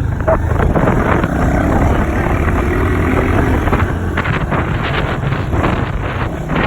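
Dirt bike engine running, with wind buffeting the microphone.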